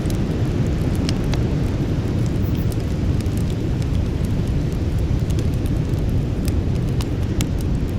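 Campfire burning: a steady low rumble with scattered sharp crackles and pops from the burning wood, a few every second or two.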